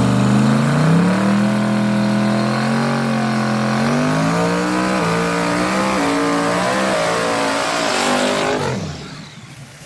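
LS V8 drag truck accelerating hard down the strip, its engine pitch climbing and dropping in steps through the gear changes, then fading out near the end.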